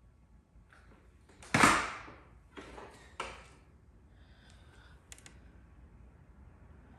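A sharp knock with a short ring about a second and a half in, then two lighter knocks and, a little later, a faint double click.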